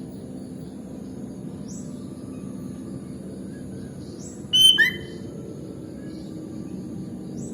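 Sooty-headed bulbul giving one short, loud call about halfway through, a quick run of notes that drop in pitch and settle, over a steady low background noise with a few faint high chirps.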